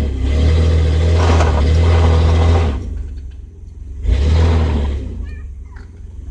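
Pickup truck's engine revved twice while parked: a long rev of nearly three seconds, then a shorter one about four seconds in, settling back toward idle between them.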